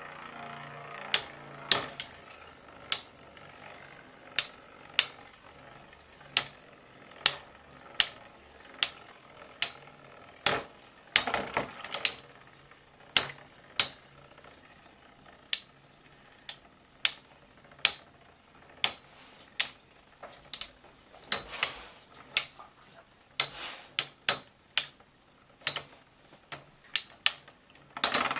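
Two metal Beyblade spinning tops, Burn Fireblaze 105HF and Lightning L-Drago 100SD, battling in a stadium. Sharp metallic clacks come every second or so as they collide, over a faint steady spinning hum.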